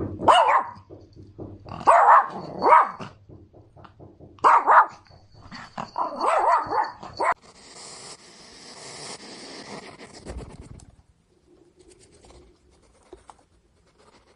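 An animal calling: four short loud calls in the first five seconds, then one longer wavering call, followed by a few seconds of soft hiss.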